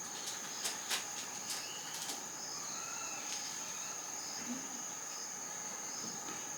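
Steady high-pitched drone of insects, with a few faint chirps and a handful of soft clicks in the first two seconds.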